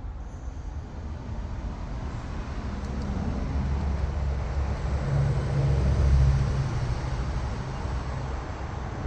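A low motor rumble with a steady hum, growing louder about five seconds in and then easing off.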